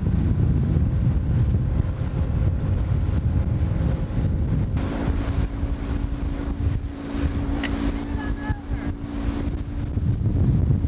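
Wind buffeting the microphone aboard a motorboat under way, a loud, rough rumble throughout. A steady hum joins about five seconds in and fades out near the end, with a single short tick midway through it.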